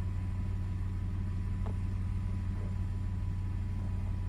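2002 Toyota 4Runner engine idling steadily, warmed up and settled into closed loop with a smooth idle.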